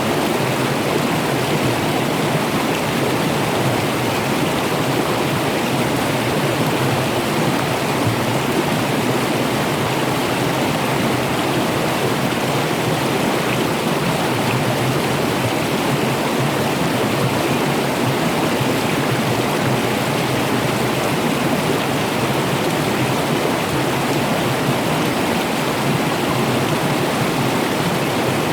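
Running water with a steady, even rush that does not change.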